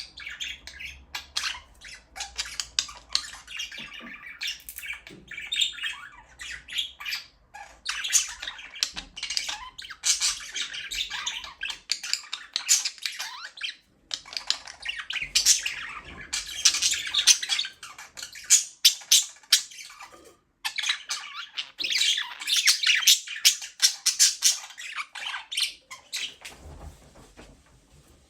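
A flock of budgerigars chirping, chattering and squawking in dense, rapid bursts, broken by two brief gaps about halfway and two-thirds through, and thinning out near the end.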